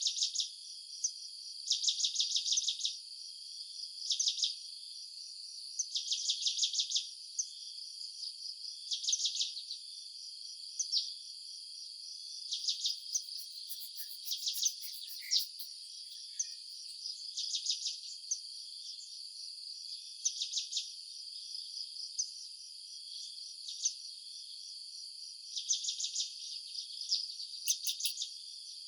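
Insects chirping in pulsed bursts of about a second, repeating every two seconds or so, over a steady high-pitched insect trill. A few rapid, very high ticking calls come in around the middle and again near the end.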